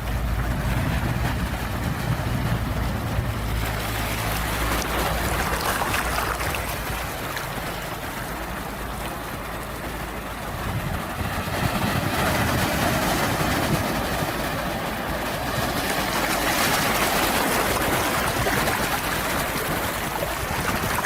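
Sea waves breaking and washing in, swelling louder every few seconds and then ebbing, with a low rumble under them for the first few seconds.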